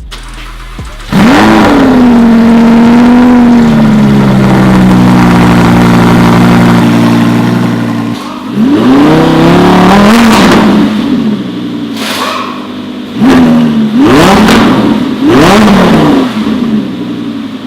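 Lamborghini Huracán's V10 engine, breathing through an Fi Exhaust valvetronic cat-back, starts about a second in with a flare of revs and settles to a steady fast idle. From about eight seconds in it is revved in a series of short throttle blips.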